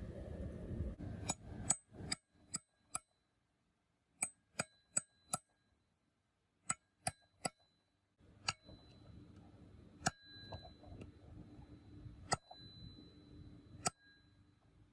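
Metal being struck on metal in the workshop: quick runs of light taps, then four single, harder strikes that each ring on briefly, typical of hammer work on a tractor gearbox part.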